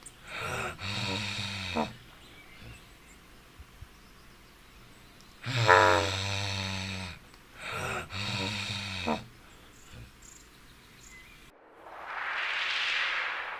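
A large animal's low, pitched calls in two bouts, each a long call followed by a shorter broken one. Near the end a different hissing sound swells up and fades.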